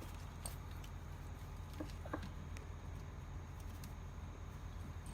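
A few faint clicks and light taps of hand tools working on a small wiring nut, over a steady low hum.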